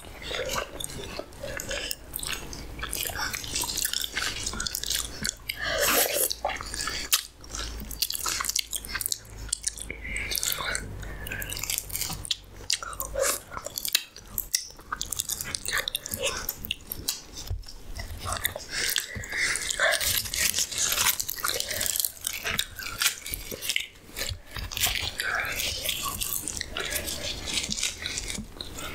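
Close-miked mouth sounds of a person biting and chewing food, with many short, irregular clicks and crunches.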